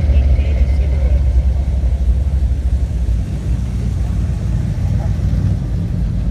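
Car engine running with a deep, steady rumble.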